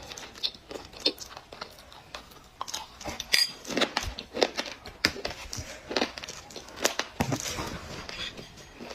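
Dry black clay being bitten and chewed close to the microphone: a run of sharp, irregular crunches.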